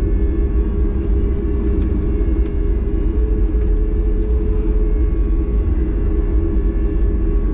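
Cabin sound of a Boeing 737 MAX 8's CFM LEAP-1B turbofan engines running, heard from inside the cabin: a steady heavy rumble with constant engine tones over it.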